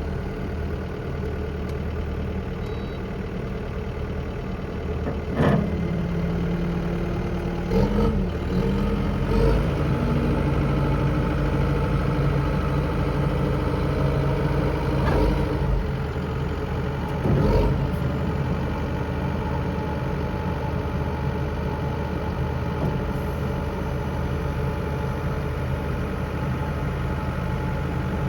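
Kubota SVL95-2s compact track loader's four-cylinder turbo diesel running steadily. About five seconds in its speed rises, and there are a few brief surges over the next dozen seconds before it settles back to a steady run.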